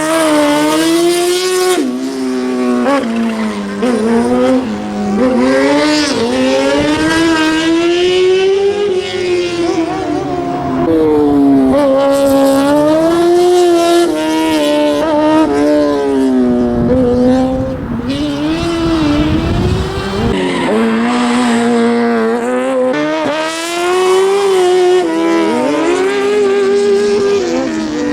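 Racing car engine revving high, its pitch rising and falling over and over as the car accelerates and slows through a slalom course, with some tyre squeal.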